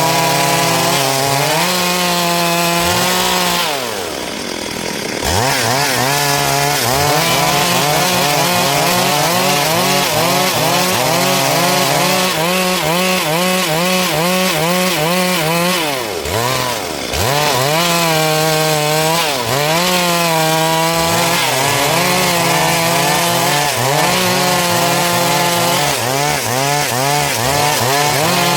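Two-stroke chainsaw cutting through dry wood at high revs, its engine pitch wavering as the chain bites into the log. The engine drops off briefly about four seconds in and again about sixteen seconds in, then revs back up into the cut.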